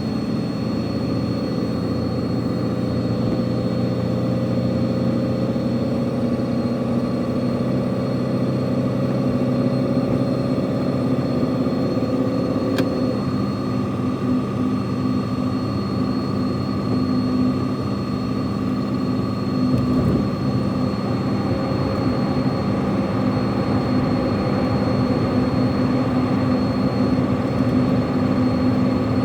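Truck engine running steadily on a downhill run, with a steady whine over the drone; one tone rises slowly and drops away about halfway through.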